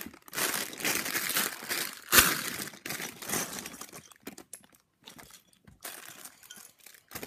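A clear plastic Lego parts bag crinkling as it is torn open and handled, with one sharp loud rip about two seconds in. Later come quieter rustles and light clicks, as of small plastic bricks.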